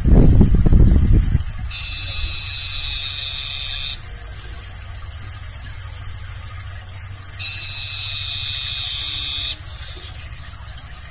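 Barn owl giving two long screeches, each about two seconds long and about five seconds apart. A loud low rumble comes in the first second, before the first screech.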